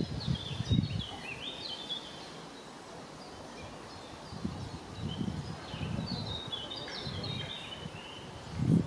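A songbird singing in quick, jagged chirping phrases, once near the start and again in the middle, with gusts of wind buffeting the microphone in a low rumble.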